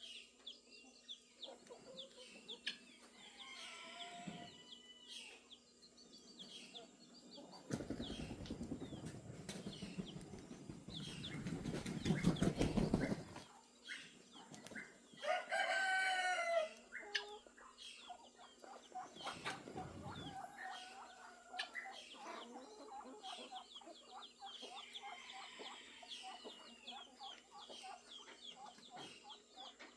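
Farmyard fowl: a rooster crows once, for about two seconds, about halfway through, with chickens clucking and small birds chirping all along. Shortly before the crow comes a loud rushing, rustling burst lasting several seconds.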